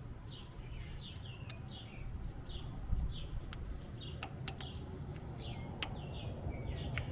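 Birds chirping over and over in short falling chirps, with a few higher warbling calls, amid scattered sharp clicks and a louder low thump about three seconds in.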